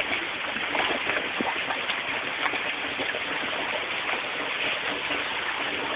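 Steady rain falling: a constant hiss with faint scattered drop ticks.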